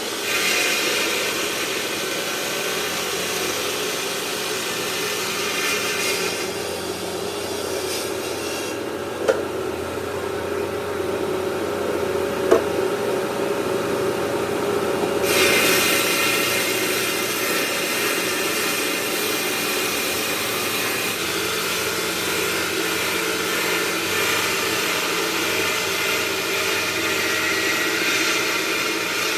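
Marble-processing machinery running with a steady mechanical noise. Its higher part falls away for several seconds partway through and then comes back, with two sharp clicks in between.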